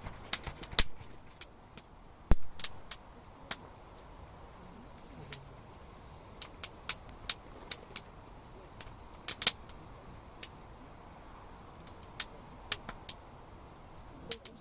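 Wood campfire crackling: irregular sharp pops and snaps, a few a second, over a steady low rush of the fire, with one louder pop a couple of seconds in.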